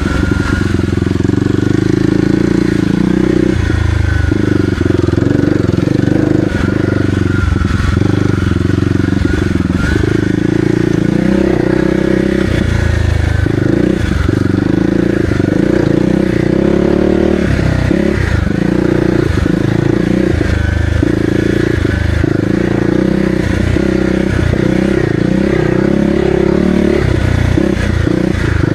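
Kawasaki KLX300R's single-cylinder four-stroke engine running as the dirt bike is ridden along a trail, the throttle opening and closing every second or two.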